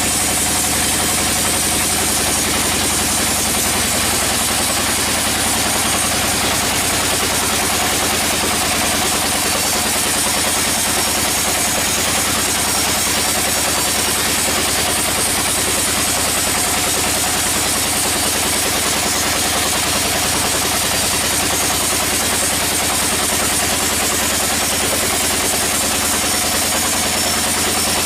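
Sawmill machinery running steadily: a constant engine drone with a fast, even pulse and no change in level.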